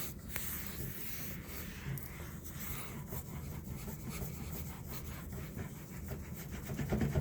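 Rubbing and wiping on a tabletop: a run of quick, irregular scrubbing strokes across the surface as the table is wiped down after a disinfectant spray.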